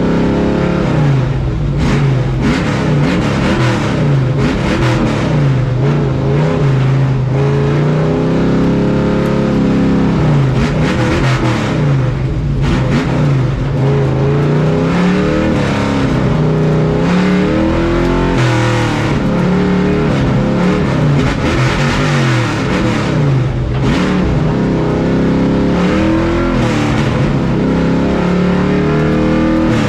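Pro truck race engine heard from on board, its pitch rising and falling every few seconds as the throttle opens and closes, over a steady rushing noise.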